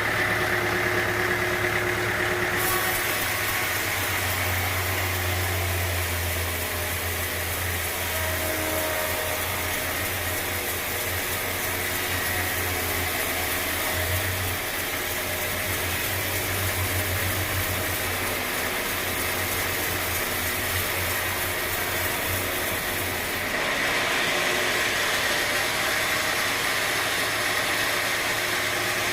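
Engine-driven machinery running steadily with a low hum. The sound changes abruptly about two and a half seconds in and again near the end.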